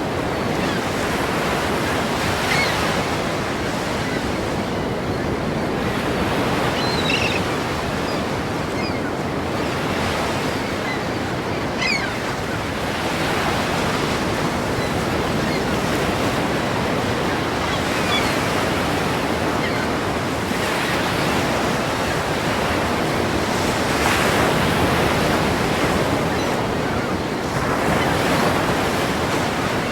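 Ocean surf: waves breaking and washing in as a continuous rushing noise that swells and eases every few seconds, with a few faint short high-pitched chirps over it.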